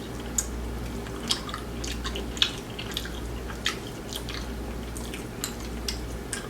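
Close-up chewing of crispy fried food: irregular crunches and wet mouth clicks and smacks, a few sharper ones spread through.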